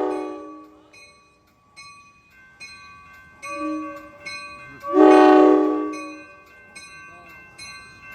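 Passenger-train locomotive air horn sounding in a horn show: a long chord fading out in the first second, then a second short chord about five seconds in. Between and after the blasts a bell rings in steady regular strokes.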